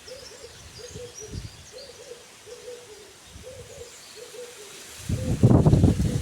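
A bird calling outdoors: a run of short, low hooting notes, about two a second, with faint chirps of other birds higher up. A louder noise cuts in about five seconds in.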